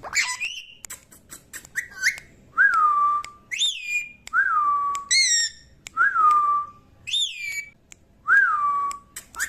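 A young parrot calling in short, high, downward-sweeping whistled chirps. These alternate with a clear whistle, heard four times, that rises briefly and then holds a steady note.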